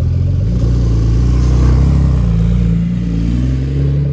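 Porsche 911 992 Turbo S twin-turbo flat-six revving through an aftermarket titanium valved exhaust. The pitch rises, falls back, then the sound drops away abruptly at the end.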